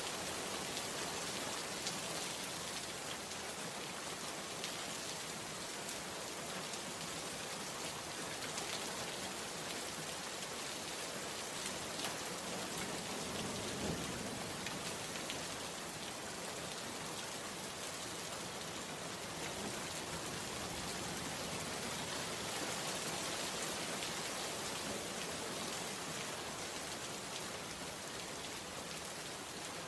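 Steady rain falling, an even, dense hiss of countless drops with no change in strength.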